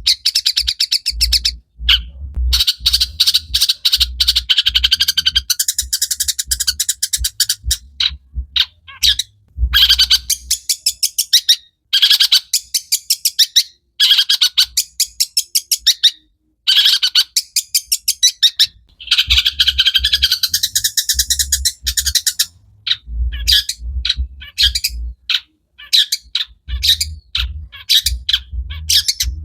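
Long-tailed shrike (cendet) in full song: a fast, scratchy chatter of rapid notes in long runs broken by short pauses, the kind of song full of phrases mimicked from other birds.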